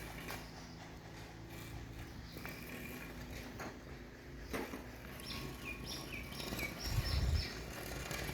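A bird chirps about five times in quick succession a little past the middle, each note falling in pitch, over a steady low hum. A sharp knock comes just before the chirps, and a low thump follows about seven seconds in.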